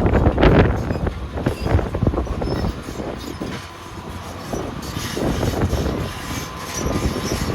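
Wheel loader working rock: heavy clattering and scraping of rocks against steel, loudest in the first second, easing off midway and building again, with faint high squeals later on.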